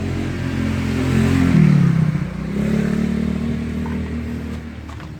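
Motorcycle engine running, its pitch rising and dropping briefly about one and a half seconds in, then settling and fading toward the end.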